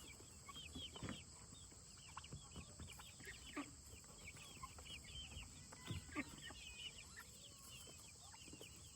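Chickens clucking faintly and repeatedly, with a few soft knocks.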